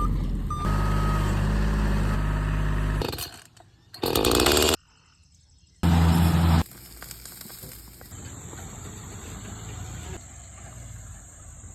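Tractor engine running steadily for about three seconds, then cut off abruptly. Two short loud bursts follow, with a near-silent second between them, and the rest is quieter steady outdoor noise.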